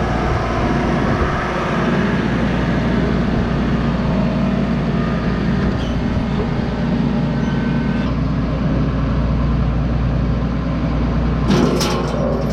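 John Deere 6155M tractor engine running steadily under way, with a few sharp clicks near the end.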